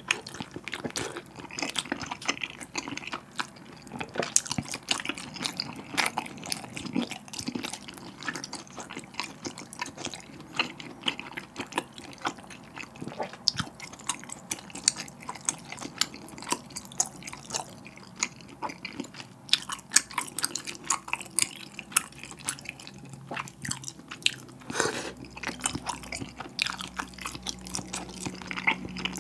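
Close-miked wet chewing of spicy tteokbokki, soft chewy rice cake and fish cake, with many small irregular mouth smacks and clicks.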